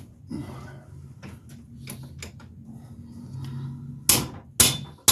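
Light clinks and knocks of metal tools and parts being handled, then two loud sharp metal knocks about half a second apart near the end, with a third as it ends.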